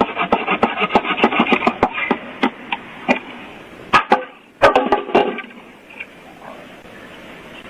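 Rapid sharp cracks and knocks, dense for about two seconds, then thinning out, with another flurry of them around four to five seconds in before they die away.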